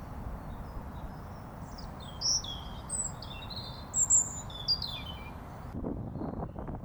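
Small songbirds chirping in short high calls over a steady low outdoor hiss, loudest about two and four seconds in. Near the end the birdsong cuts off abruptly and gusts of wind buffet the microphone.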